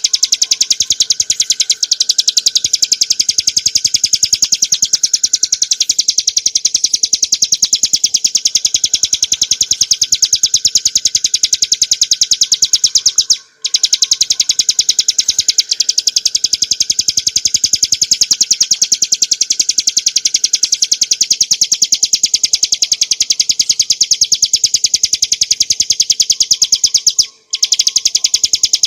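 Ciblek gunung (a prinia) singing an unbroken, very fast rattling trill of sharp high notes. It stops for a moment twice.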